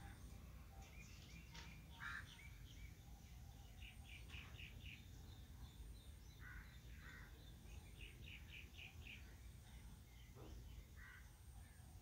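Faint birds chirping, with scattered short chirps and two quick runs of several notes, over a steady low hum.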